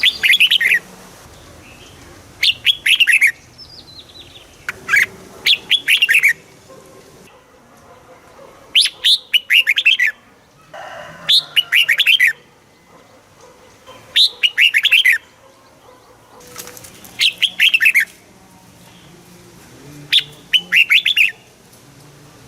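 Red-whiskered bulbul singing: short bright phrases of quick sweeping notes, repeated about every three seconds, about eight times.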